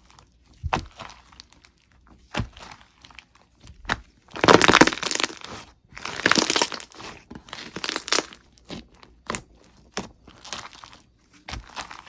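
Slime being squeezed and pressed by hand, giving irregular crackling, crunching squishes. The longest and loudest comes about four to five seconds in, with another around six seconds and shorter sharp crackles between.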